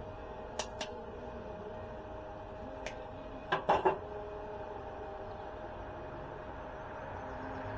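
Metal pieces clinking and clanking as they are handled: a quick pair about half a second in, one light click near three seconds, and a louder cluster of clanks around three and a half seconds, over a steady low hum.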